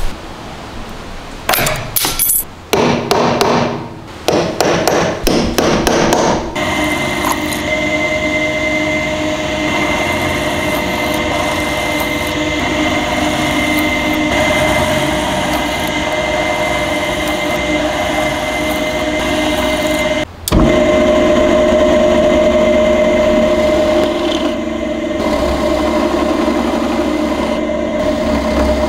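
Several seconds of sharp, irregular metal knocks and taps, then an electric power tool starts and runs steadily with a constant whine. It cuts out for an instant about two-thirds of the way through and runs on.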